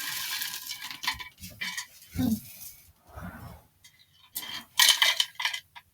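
A spoon clinking and scraping against a cereal bowl of dry Kix cereal, in a series of short, separate clatters, the loudest about five seconds in.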